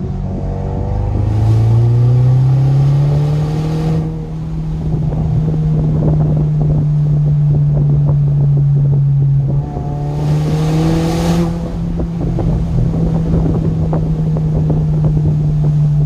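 2021 Ford Ranger's exhaust with the muffler deleted, exiting at the side, with the engine running under load. The exhaust note climbs over the first two seconds and settles into a steady drone. It dips briefly about ten seconds in and rises again.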